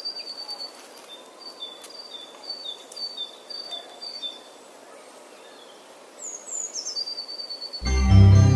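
Bird song: a clear two-note whistle, high then a little lower, repeated about eight times, then after a pause a few quick falling notes and a held whistle. Near the end, loud organ-like keyboard music starts.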